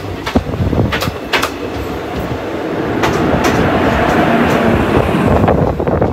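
Passenger train running, heard from the open door of a sleeper coach: wheels clack sharply over rail joints several times. The rumble grows louder about halfway through while passing close alongside a freight train and its electric locomotives.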